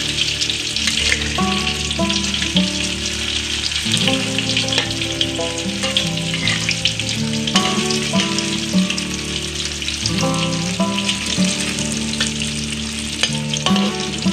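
Tofu sticks frying in hot oil in a wok: a steady sizzle, with the spatula scraping and tapping the pan as they are turned. A background melody plays underneath.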